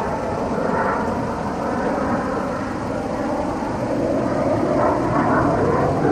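Display aircraft flying at an air show: a steady rushing engine noise that swells and fades slightly.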